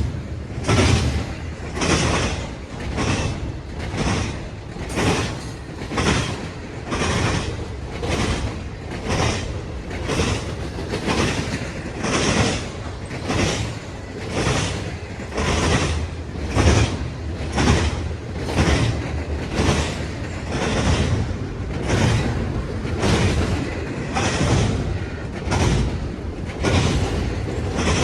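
Train cars rolling past, their wheels clacking over rail joints in a steady, even rhythm of a little more than one clack a second, over a continuous rumble.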